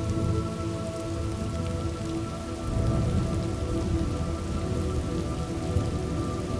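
Steady rain from a thunderstorm ambience track, with a low rumble of thunder that swells about three seconds in. Soft sustained musical tones sit underneath.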